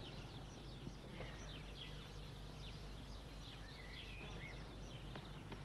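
Faint birdsong: scattered short chirps and twitters over a steady low hum.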